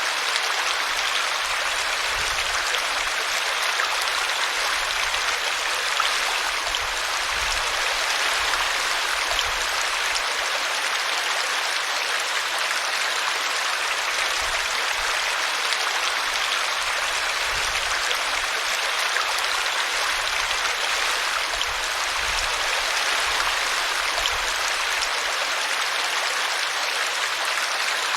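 Small brook running steadily, water spilling over a tree root in an even, unbroken rush.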